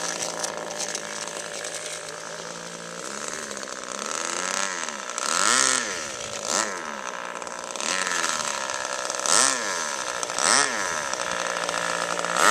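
Engine of a radio-controlled model airplane in flight, running steadily at first, then rising and falling in pitch over several passes, loudest on a few quick flybys in the second half.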